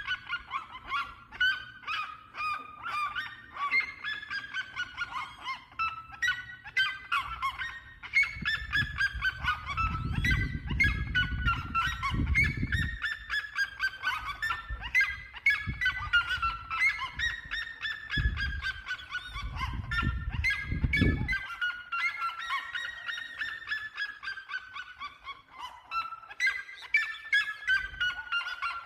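Red-legged seriemas calling: long runs of rapid, loud yelping notes that fall in pitch, several series overlapping as the birds call together. A low rumbling noise comes in twice around the middle.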